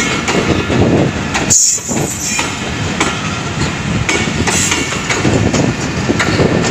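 Pakistan Express passenger coaches passing close by at speed, with a steady rumble and the wheels clacking over the rail joints. The sound dips briefly about a second and a half in.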